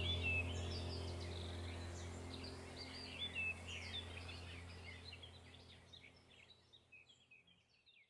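Birds chirping in quick, pitch-sliding calls over a low steady hum, both fading out to silence about five seconds in.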